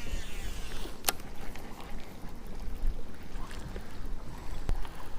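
Wind buffeting the microphone on an open boat, a steady low rumble with a single sharp click about a second in.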